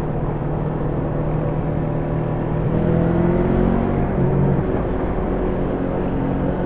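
Yamaha YZF-R3's parallel-twin engine running through its stock exhaust under riding; about three seconds in the engine pitch climbs as it accelerates, then holds steady.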